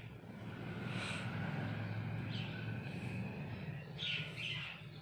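A few short bird calls, loudest about four seconds in, over a low steady hum.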